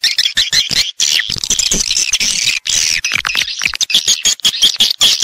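Swiftlets calling in a dense, rapid stream of chirps and clicks, as played to lure edible-nest swiftlets into a swiftlet house.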